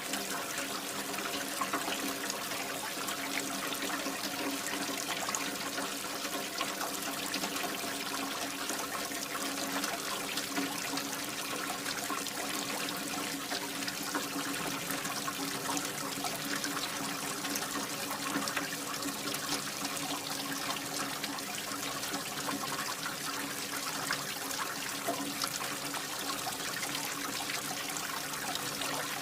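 Water pouring and splashing steadily from a mini water pump's outlet, with a steady hum underneath from the small engine driving the pump.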